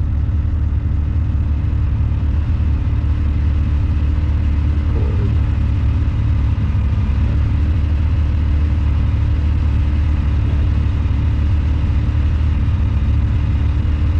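Side-by-side UTV engine running at a steady idle, a low even rumble with a constant hum.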